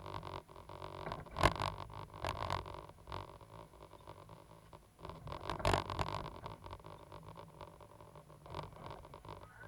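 Cat 320GC excavator running with a steady low engine hum, broken by a few sudden louder bursts of noise, the strongest about a second and a half in and again near six seconds.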